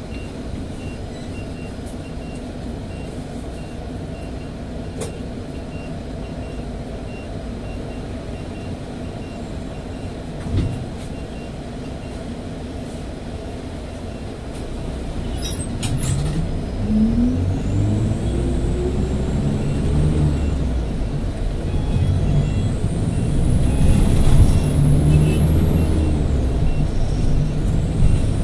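Bus running, heard from inside: a steady low rumble at first, a few short clicks around the middle, then the drive sound rises in pitch and grows louder as the bus accelerates, with a high whine climbing, holding and falling again several times.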